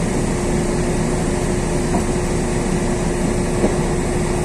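Cabin noise inside a LiAZ 6213.22 articulated city bus under way: a steady mix of engine and road rumble with a constant hum.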